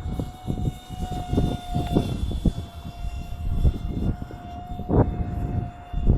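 The electric motor and propeller of a small RC airplane whine steadily in flight, the pitch dropping slightly about two seconds in. Gusts of wind rumble on the microphone throughout, loudest about five seconds in.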